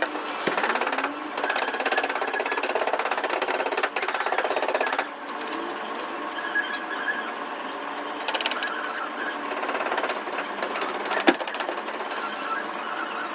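Rapid mechanical rattling for about five seconds, then softer squeaks and a single sharp click near the end.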